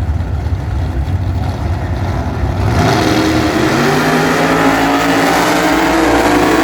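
Drag racing car engine, a low rumble that opens up about three seconds in into a loud, steady high-revving run.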